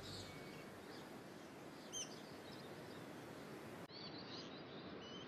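Faint rainforest ambience: a steady hiss with a few short, high bird chirps, one about two seconds in and several more after about four seconds.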